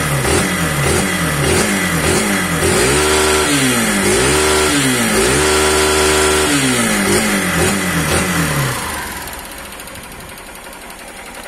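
2008 Honda Titan 150's carbureted single-cylinder four-stroke engine, fitted with a Jet Motos 'City Grau' performance camshaft and a 110 main jet and breathing through the stock muffler, being revved in place: a run of quick throttle blips, then a few longer revs held briefly, before it drops back to a quieter idle near the end. The throttle response is crisp, likened to a fuel-injected bike.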